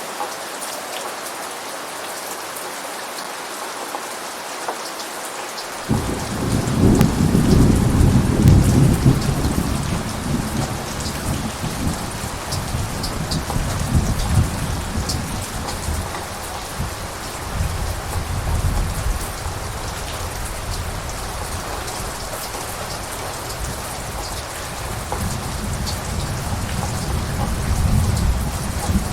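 Steady heavy rain falling on surfaces. About six seconds in, a long roll of thunder sets in suddenly, rumbles for several seconds, and fades. Further lower rumbles return later and build again near the end.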